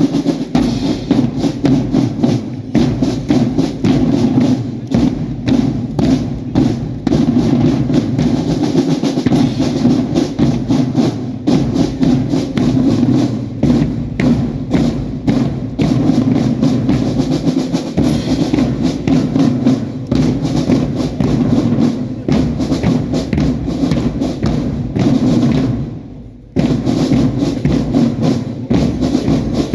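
Marching drum band playing: snare, tenor and bass drums beating a steady rhythm under sustained band melody, with a brief break late on before the band comes back in.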